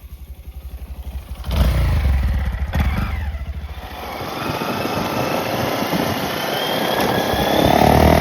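Honda Monkey's single-cylinder engine running through its exhaust. It pulses low at first, jumps in level about a second and a half in, then climbs steadily in pitch and loudness as it accelerates, peaking near the end.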